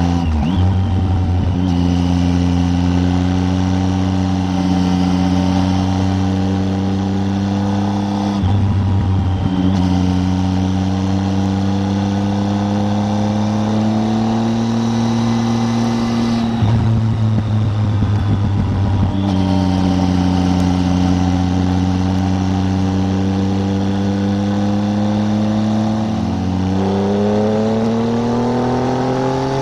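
Triumph Tiger 800's three-cylinder engine running under way at a steady cruising note, broken up briefly three times. Near the end the pitch dips, then climbs steadily as the bike accelerates.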